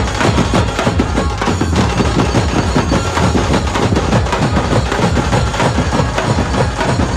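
Dhumal band playing a Bollywood tune loud and amplified, with dense, driving drums.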